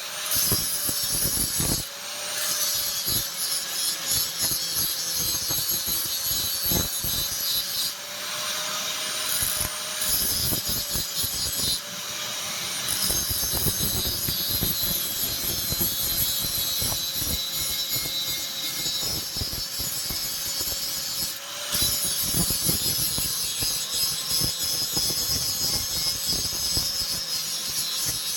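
Electric grinder working leaf-spring steel: a steady motor whine under a loud, harsh grinding hiss that drops out briefly a few times as the tool comes off the work, while the motor keeps running.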